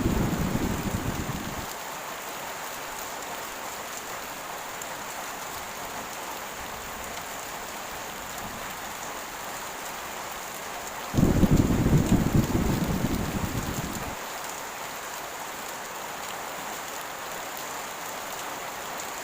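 Heavy rain pouring steadily in a thunderstorm. A low thunder rumble is dying away over the first couple of seconds, and another roll of thunder breaks about eleven seconds in and fades over about three seconds.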